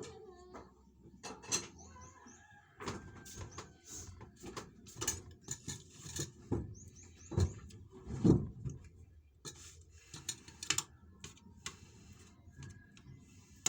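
Scattered clicks and knocks, with two short runs of quick high bird chirps about 2 and 7 seconds in, and farmyard fowl in the background.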